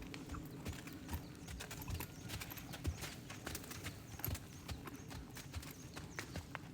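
Hoofbeats of a ridden warmblood horse working in an arena: a continuous run of dull thuds with sharper clicks among them.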